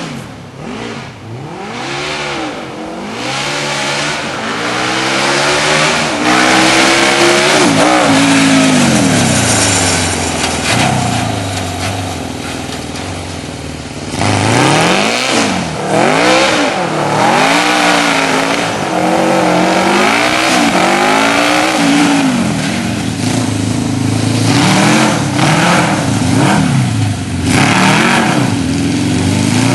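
Kawasaki KZ650 air-cooled inline-four motorcycle engine in a go-kart, revving up and easing off again and again, its pitch rising and falling over and over as the kart is driven.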